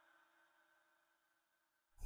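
Near silence: a pause in the Quran recitation, with only faint leftover tape hum, before the voice comes back in suddenly at the very end.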